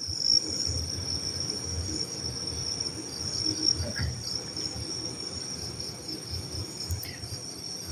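Crickets chirring steadily, a continuous high-pitched trill, with faint low rustling underneath.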